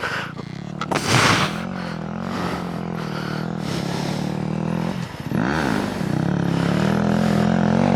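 Dirt bike engine running at low, steady revs, with a brief dip and rise in pitch about five seconds in. A short scraping clatter about a second in.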